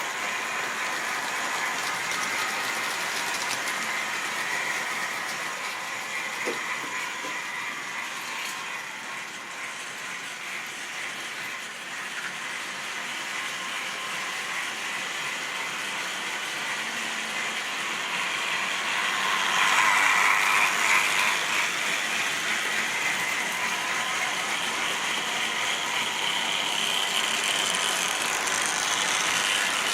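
Model railway train running on track: a steady whirring, gear-like rattle from the locomotive's motor and the wheels on the rails, with steady whining tones. It swells louder for a couple of seconds about two-thirds of the way through.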